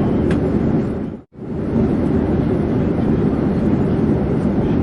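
Steady low rumble of an airplane in flight, engine and air noise without a clear pitch, cutting out for a moment about a second in and resuming.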